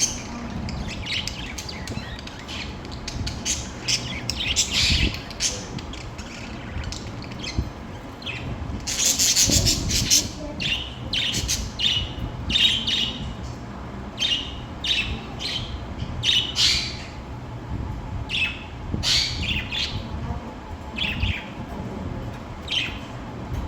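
Budgerigars chirping and chattering in many short, quick chirps, with a louder, harsher burst about nine seconds in.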